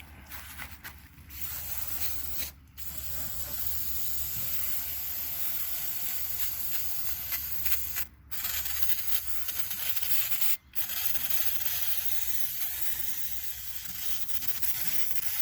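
Degreaser spray hissing in long sprays, with three short breaks where the spray is released.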